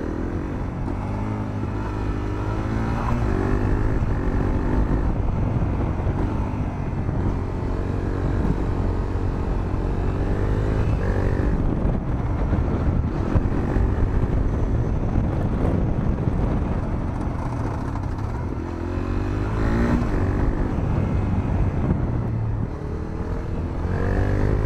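Honda CRF250L's single-cylinder four-stroke engine running through a Moriwaki aftermarket muffler while the bike is ridden. The engine note rises in pitch several times as it accelerates, and drops back in between.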